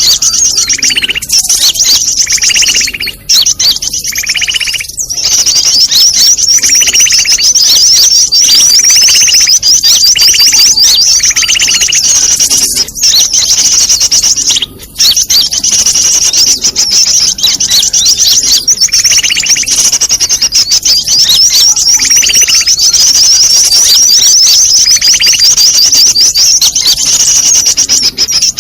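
Bird-luring (pikat) recording: a loud, dense chorus of small-bird calls. Rapid, high chattering runs without a break, and a lower call repeats about every second or so. It is a 'ribut' (commotion) lure mix, played to draw birds in for trapping.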